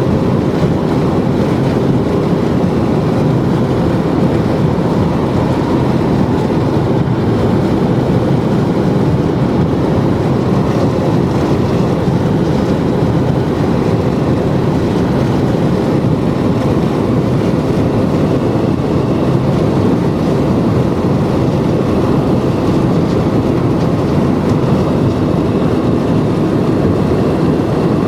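Steady, loud rumble of a vehicle travelling at highway speed: unbroken road and wind noise with no breaks or separate events.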